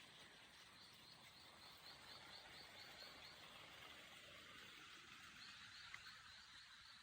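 Faint outdoor background noise with a soft, high chirp repeating about three times a second, and a single small click about six seconds in.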